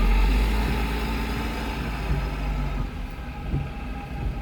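Low vehicle rumble heard from inside a car cabin, loudest for the first three seconds and then easing off.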